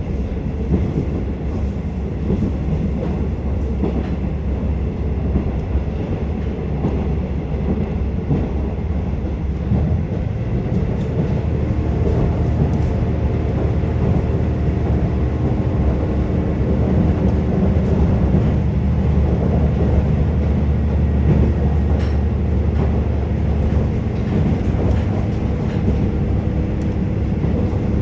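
Inside a KiHa 47 diesel railcar running along the line: a steady low rumble of wheels on rail and the underfloor diesel engine, with occasional clicks. About a third of the way in, a steady engine hum joins and the sound grows slightly louder. It fades again near the end.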